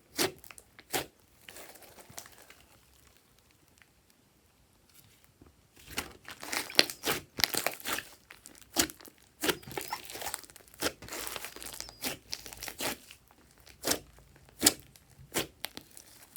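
Glossy slime being squished and stretched by hand, giving sticky pops and crackles: a few pops early on, a quiet stretch, then a dense run of crackling from about six seconds in, and a few loud pops near the end.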